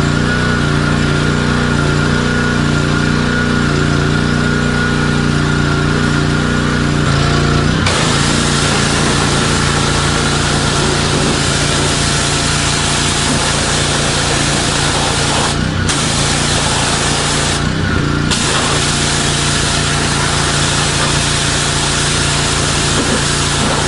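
A motor running steadily with a constant hum and a wide rushing noise, changing abruptly about 8, 16 and 18 seconds in.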